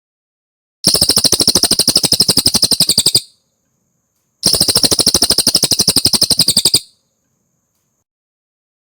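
Cililin song from a masteran tutor recording: two fast, rattling trills of evenly spaced high chips, each lasting about two and a half seconds, a little over a second apart.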